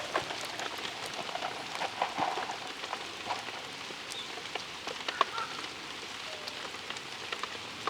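Steady rain falling, an even hiss with many small, scattered drop ticks.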